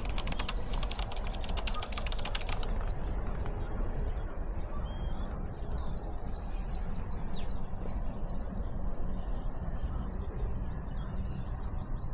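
A bird singing a run of quick, repeated high chirps, heard twice, over a steady low rumble of outdoor noise. Rapid clicking runs through the first couple of seconds.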